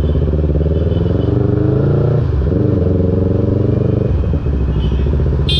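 Yamaha R3 parallel-twin motorcycle with a loud aftermarket exhaust, accelerating through the gears. The engine note climbs in pitch, dips briefly at a gear change about two seconds in and again about four seconds in, then climbs again.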